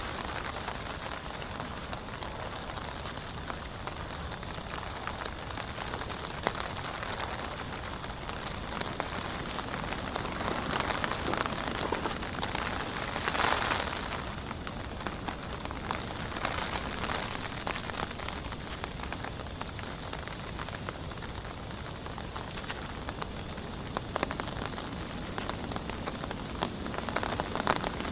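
Heavy rain falling steadily, with many separate drops ticking through a dense hiss. It swells louder about halfway through and again near the end.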